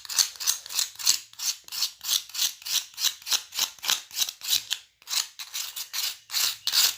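A cuttlefish bone being scraped by hand with quick, even rasping strokes, about four or five a second, with a short break about five seconds in. The soft, dirty outer layer is being scraped off so that the bone is clean and white for cage birds.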